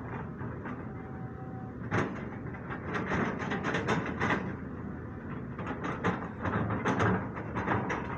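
CAT 320D2 hydraulic excavator working, its engine running under many irregular knocks and clattering.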